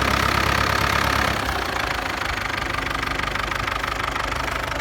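Ford 5000 tractor engine running steadily; about a second in, it gets quieter and a higher whine fades out.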